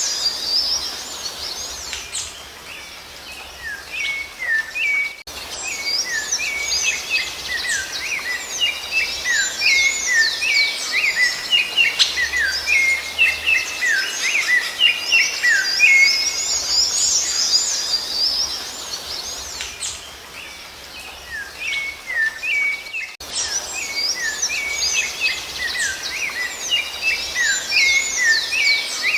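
Bird song, given as that of the rufous-bellied thrush (sabiá-laranjeira): a busy stream of quick, overlapping chirps and whistled notes. It thins out twice, briefly, then picks up again after sudden cuts.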